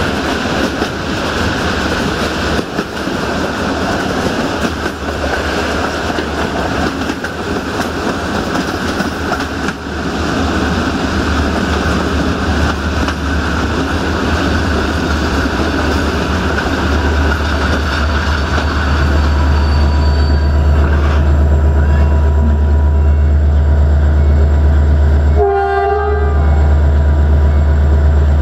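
Passenger train wheels rumbling and clicking over the rails, the noise easing as the train slows into a stop, leaving a steady low hum. About 26 seconds in, a horn sounds once, briefly.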